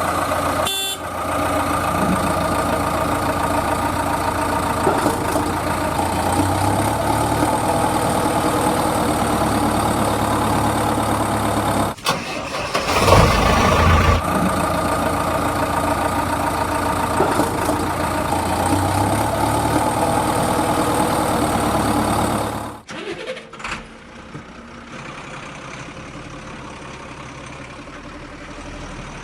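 Heavy diesel vehicle engine running steadily, with abrupt cuts a little under halfway through and again about three-quarters through, after which a quieter engine idles.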